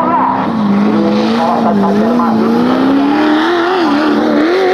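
Off-road 4x4 race vehicle's engine pulling under load, its note climbing slowly as it accelerates and dropping just after.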